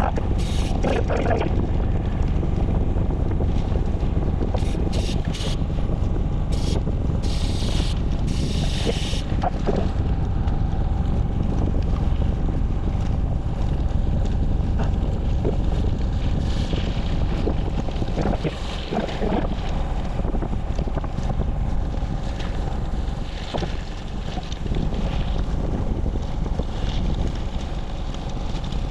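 Wind buffeting the microphone in a steady low rumble, with a few brief, sharper noises in the first ten seconds or so.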